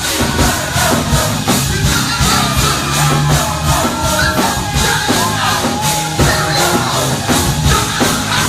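Live gospel choir singing over a full band with drums and bass keeping a steady beat.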